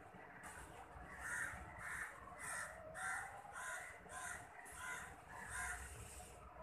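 A bird giving a run of about ten short calls, roughly two a second, starting about a second in.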